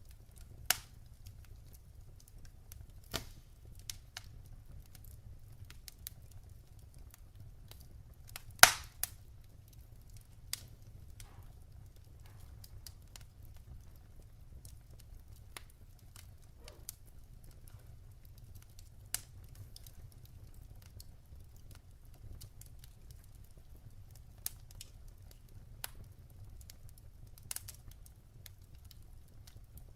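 Wood fire crackling in a fireplace: scattered sharp pops and snaps, the loudest about nine seconds in, over a low steady rumble.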